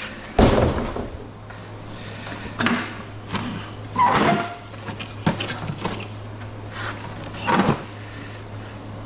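Metal parts of an air conditioner clanking and banging as it is pulled apart: a loud clank about half a second in, then several more knocks and rattles, with another loud one near the end.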